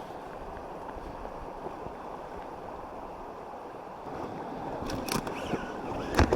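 Steady rushing of flowing river water, growing louder past the middle, with a couple of sharp knocks near the end.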